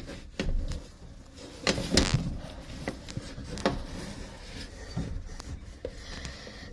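Handling noise as someone works on a shower pod: a few scattered knocks and rubbing scrapes, the loudest about two seconds in.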